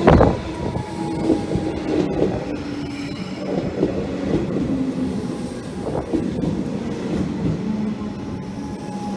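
Train moving through a station: a loud clunk at the start, then wheels knocking over the rail joints over a steady hum.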